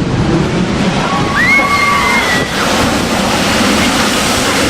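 Heavy storm surf and rushing water, with wind buffeting the microphone. About a second and a half in, a brief high-pitched cry rises over the noise.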